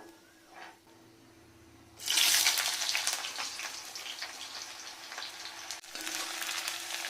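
Hot cooking oil in a pan bursts into loud sizzling about two seconds in, as ingredients are dropped in, then keeps frying with a steady crackling hiss.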